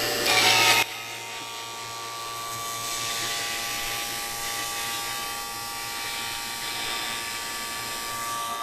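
Refrigeration vacuum pump running with a steady whine. In the first second there is a brief loud hiss as a valve is opened to the system under evacuation.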